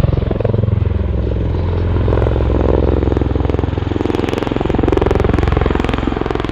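MV-22 Osprey tiltrotor flying low in helicopter mode, its two large proprotors making a rapid, steady beating over the loud drone of its Rolls-Royce turboshaft engines.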